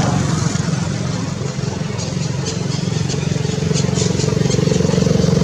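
An engine running steadily, a low even drone with light clicking over it in the second half.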